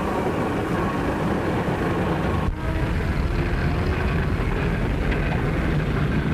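Steady rumble of a car running on the road, with a brief break about two and a half seconds in.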